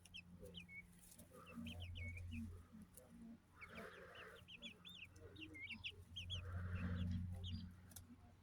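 Chicks peeping: quick, short, high chirps, several a second, busiest in the second half. A low hum swells up twice underneath, about two seconds in and again near the end.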